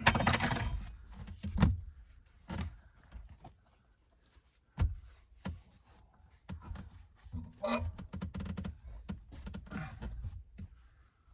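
Scattered knocks and thuds from handling things and moving about in a small space, with a few sharp clicks and low rumbling between them.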